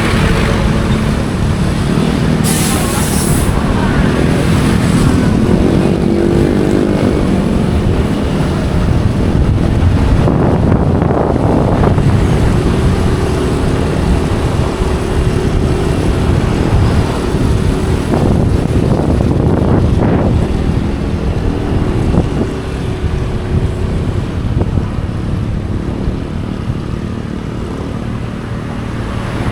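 Motorcycle engine running while riding through streets, its pitch rising and falling with the throttle, under heavy rumbling road and wind noise. A brief sharp hiss comes about three seconds in.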